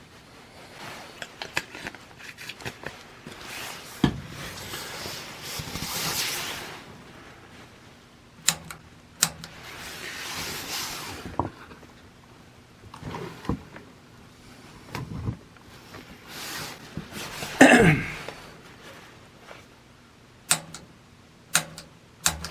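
Scattered clicks and knocks from hands working at a gas water heater's controls while it is being lit, with a couple of soft rushing swells and one louder short sound about eighteen seconds in.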